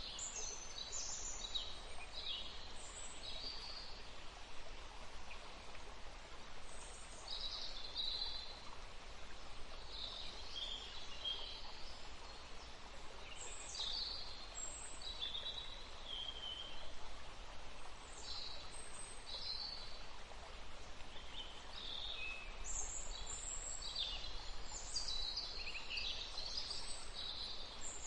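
Forest stream flowing steadily, with songbirds singing short, high chirping phrases over it, busiest near the start, in the middle and toward the end.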